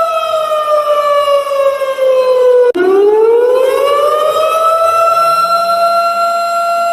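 Civil-defense-style siren, a single wailing tone that slides slowly down in pitch, breaks off abruptly about two and a half seconds in, then rises back up and holds steady. It sounds the alarm for an earthquake drill.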